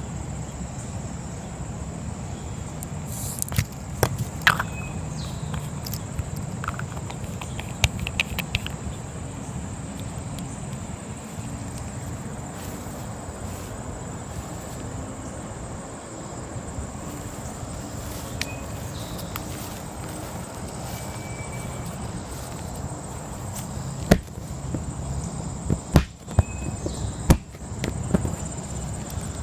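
A manual air pump being worked to inflate an inflatable raft's outer chamber, with a few sharp knocks from handling about 4 and 8 seconds in and several more near the end. Crickets chirp steadily.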